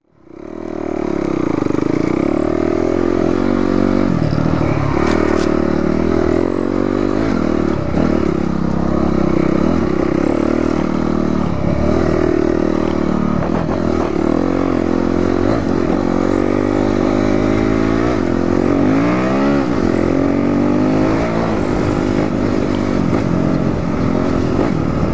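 Dirt bike engine running under way, its pitch rising and falling as the throttle is worked, with some clattering; a sharp rev-up comes near the end. The sound fades in at the start.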